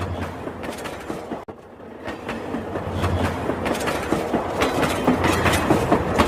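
Rail King battery-powered toy train running on its track: a dense, uneven stream of clicks and rattles with a low motor hum, and a brief drop about one and a half seconds in.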